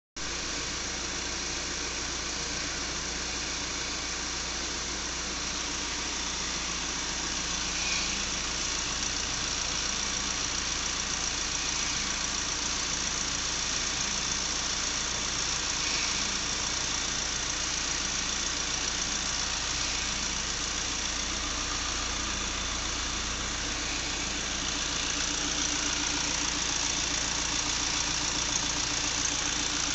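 Common-rail (CRDI) diesel engine idling steadily.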